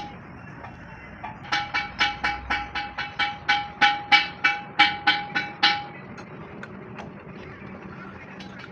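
A quick, even run of about fifteen hammer blows on steel, roughly four a second, each blow leaving a bright metallic ring. They start about a second and a half in and stop near the six-second mark.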